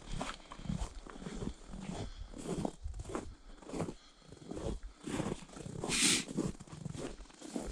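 Footsteps of a hiker crunching along a snowy winter trail at a steady walking pace, about two steps a second, with one sharper, hissier crunch about six seconds in.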